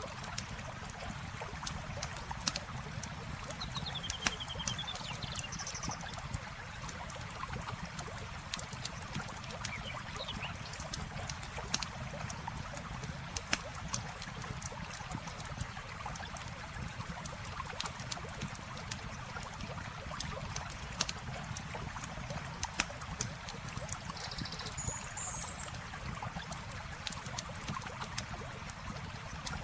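Campfire crackling with frequent sharp pops over a steady sound of trickling river water, with a few brief bird chirps.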